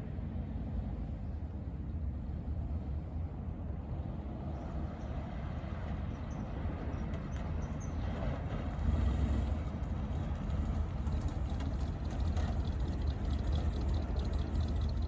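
1957 Chevrolet Bel Air's engine running with a steady low rumble, a little louder from about nine seconds in.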